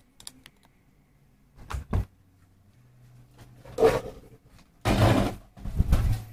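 Handling noises from working on an opened induction cooker. A quick double knock comes about two seconds in, then louder rustling and scraping bursts follow in the second half.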